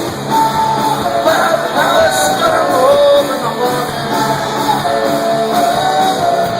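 Rock music: a full band playing, with a melody line gliding between notes, in a gap between sung lines.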